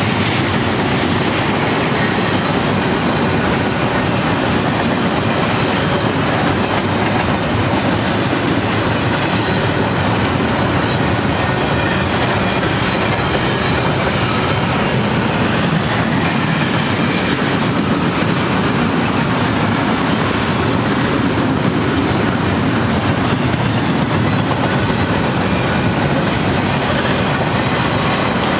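Loaded double-stack intermodal container train rolling past at a steady pace. Its steel wheels run on the rails with a continuous, even, loud clatter.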